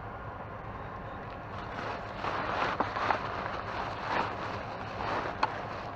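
Rustling and handling noise of a trash bag of hats and clothes being sorted, starting about two seconds in, with a couple of sharp clicks, over a steady background hum.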